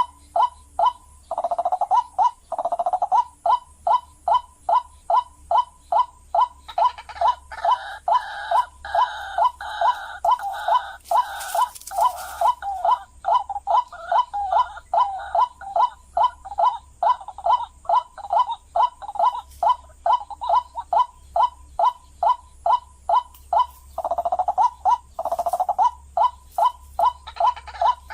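White-breasted waterhen calling: a long, monotonous run of short "kruak" notes, about two and a half a second, with a second overlapping series of calls in the middle and brief blurred bursts near the start and near the end.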